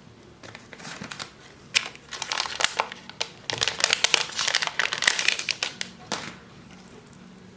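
Thin plastic film or packaging crinkling and crackling as it is handled during a phone repair, in dense irregular bursts that stop about six seconds in.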